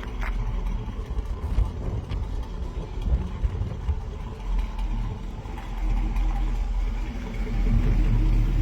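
1955 Chevrolet truck's swapped-in 5.3-litre LS V8 running at idle, a steady low rumble, a little louder near the end.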